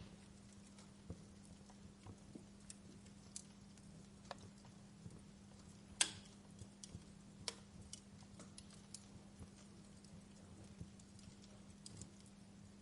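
Wood fire crackling: scattered small pops and snaps at an uneven pace, with one louder snap about six seconds in, over a faint steady low hum.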